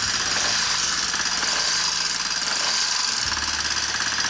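Kawasaki Estrella's air-cooled single-cylinder engine running with a loud rapid mechanical clatter, a 'gacha-gacha' rattle that the mechanic traces to the cylinder head. The engine's pitch shifts about three seconds in.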